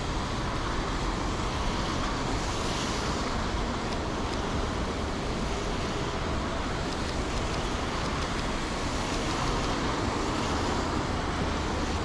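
Steady city street traffic noise: an even hiss with no single event standing out.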